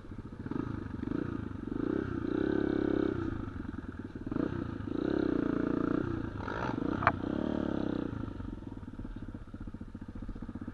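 Small single-cylinder off-road motorcycle engine running, its revs rising and falling in swells every couple of seconds. A short click about seven seconds in.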